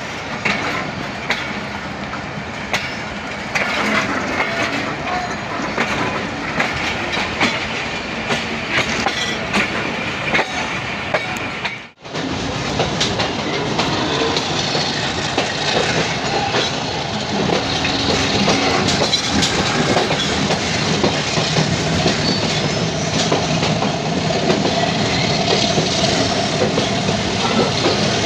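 Passenger train running on the rails: a steady rumble with the wheels clicking over rail joints. The sound breaks off for an instant about twelve seconds in, then carries on a little louder.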